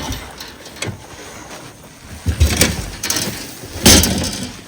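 A few sharp knocks and thumps, the loudest about four seconds in.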